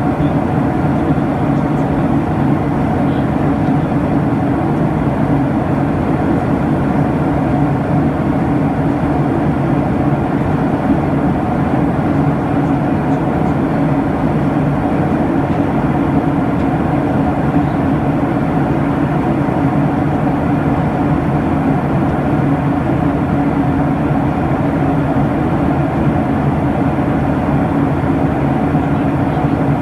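Steady cabin drone of a Boeing 737-800: its CFM56 jet engines and the airflow over the fuselage, a constant low hum that does not change.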